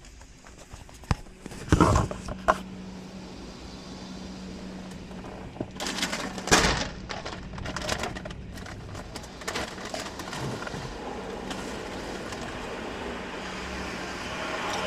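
Automatic car wash heard from inside the car: a few loud knocks and clatters in the first seven seconds, then a steady machine hum with a hiss that builds toward the end.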